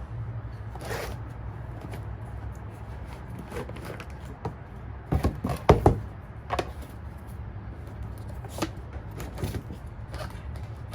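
Items being rummaged through and handled: scattered rustles and clicks, with a few louder knocks and clatters about halfway through, over a steady low hum.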